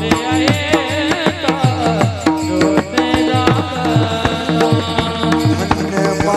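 Devotional kirtan music: a voice sings a wavering melodic line over steady held harmonium-like tones. A hand drum plays low strokes that bend down in pitch, and hand cymbals keep a regular beat.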